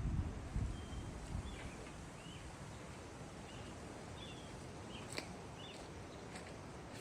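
Birds giving scattered short chirps over a steady outdoor background hiss, with a low rumble in the first second or so.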